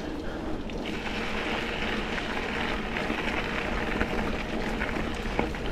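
Mountain bike rolling along a dirt trail: a steady noise of tyres on the ground and the bike rattling, with a few light clicks.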